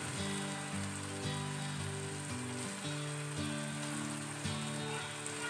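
Onions and tomatoes sizzling in hot oil in a pan, with soft background music of held, slowly changing notes.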